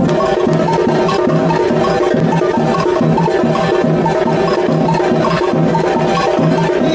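Samba band's percussion section playing a steady samba beat: drums with a low pulse about twice a second, under bells and other percussion, kicking in at full strength at once.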